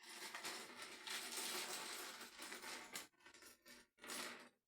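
Plastic bags of small LEGO pieces being handled and set down on a table, the loose plastic bricks rattling and clinking inside the crinkling bags. A few seconds of dense clattering, then a few shorter rattles.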